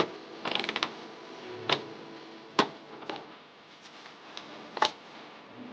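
Playing cards being handled and slapped down on a table: a quick flurry of clicks about half a second in, then several single sharp snaps a second or so apart.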